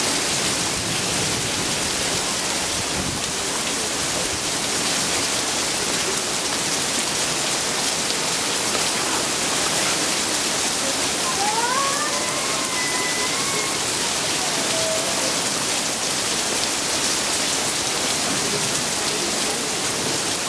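Steady rain falling, an even hiss that holds the same level throughout, with a brief pitched call rising and gliding about halfway through.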